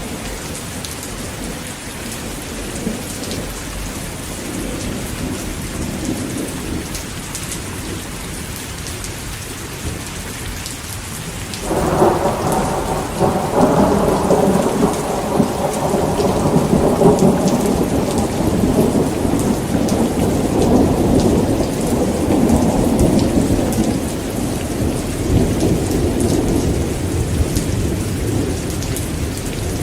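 Heavy rain falling steadily. A little before halfway a thunderclap breaks in suddenly and rolls on as a long, deep rumble that slowly eases off.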